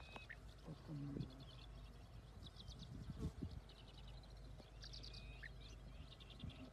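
Faint bird calls over open grassland: short, dry, rattling trills repeated every second or two, with a few thin, falling chirps. A low background rumble runs underneath.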